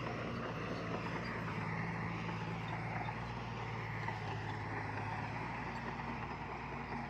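Diesel engine of heavy earthmoving machinery running steadily, with a low engine hum under a rumbling noise.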